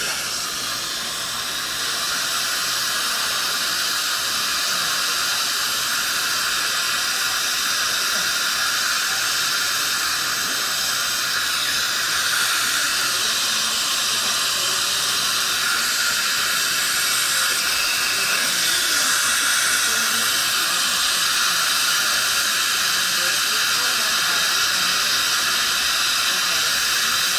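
Dental equipment running during tooth restoration work: a steady high hiss of the kind made by a high-speed handpiece with its water spray and the suction, with a faint steady whine under it.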